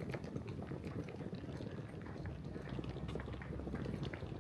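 Low, fluttering rumble on a handheld phone's microphone, with faint footsteps.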